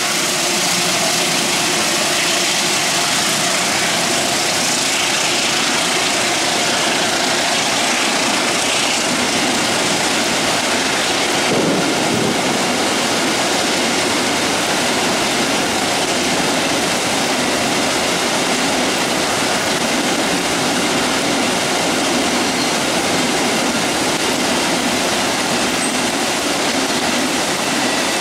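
Diesel-hauled container freight train rolling steadily past, its wagons going by without a break, mixed with the hiss of heavy rain.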